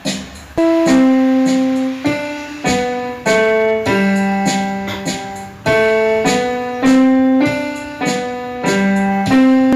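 Background music: a piano or electric-piano melody of struck notes, each ringing and fading, in a slow steady rhythm.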